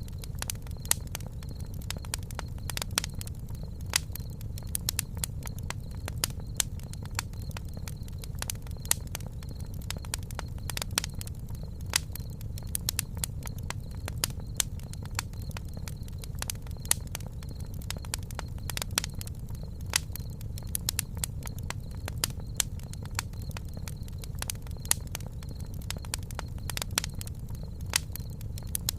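Campfire crackling: frequent sharp pops and snaps, irregularly spaced, over a low steady rumble.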